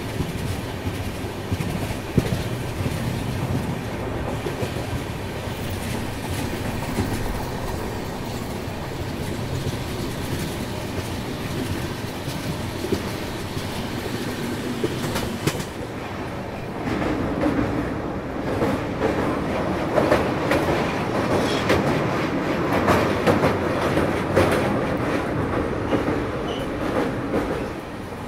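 Express passenger train running at speed, heard from an open coach doorway: a steady rumble of steel wheels on the rails. A little past halfway it grows louder, with a rapid run of wheel clicks and clatter.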